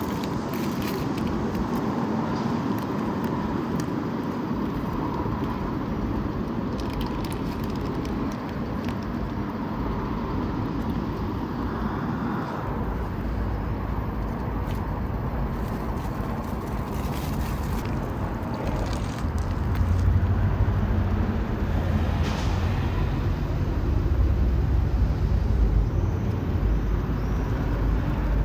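Steady outdoor street ambience with road traffic going by. A deeper low rumble swells about two-thirds of the way through, and a few short faint clicks stand out now and then.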